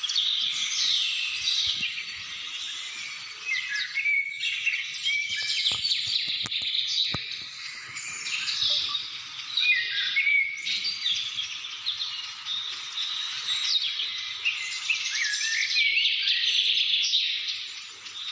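A chorus of many birds singing and calling over one another, high chirps, whistles and trills without a break.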